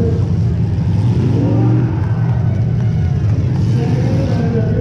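Demolition derby car engine running loud and steady.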